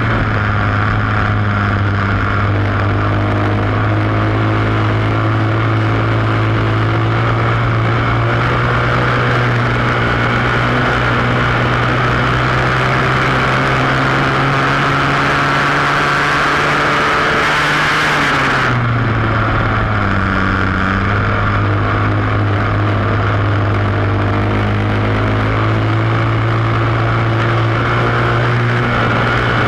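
Flat-track racing motorcycle engine heard from on board at full speed, holding a steady high-revving note with a rush of wind. About two-thirds of the way through, the engine note dips, then climbs back up.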